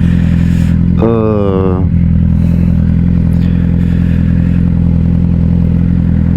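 Suzuki GSX-R600's inline-four engine idling steadily while stopped at a traffic light.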